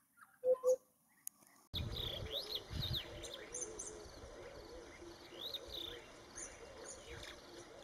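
Two short, loud notes in quick succession about half a second in, then, after a sudden rise in outdoor background noise a second later, birds chirping and calling throughout, with many quick rising and falling chirps over a repeating lower warbling call.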